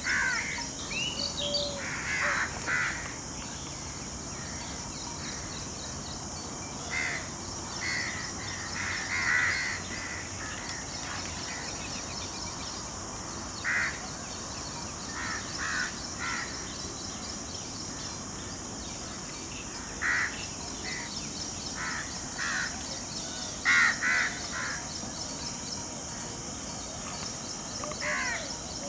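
Birds calling: short, harsh cawing calls in twos and threes every few seconds, the loudest a little before the end, over a steady high hiss.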